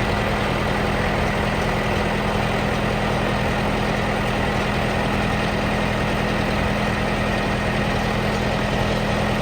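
Case 1845C skid steer loader's four-cylinder diesel engine idling steadily.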